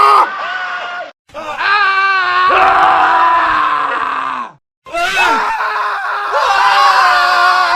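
Men screaming, separate screams cut one after another: a first scream breaks off about a second in, a long wavering scream follows after a brief silence and slides down in pitch at its end, then another scream starts after a second short gap just past halfway.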